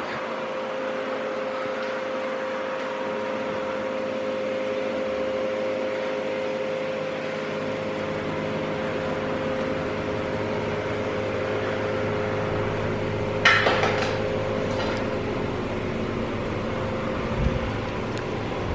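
Steady hum of car wash equipment motors in the wash bay, with a clank about two-thirds of the way through and a lighter knock near the end.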